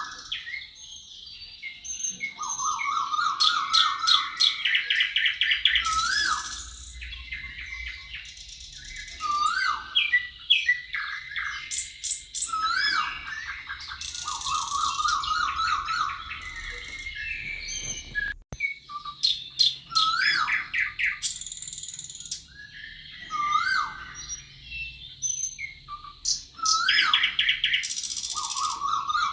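Several songbirds singing together in a forest chorus. Short rising whistled notes repeat every few seconds, mixed with rapid trills and high buzzy phrases, with a momentary dropout about two-thirds of the way through.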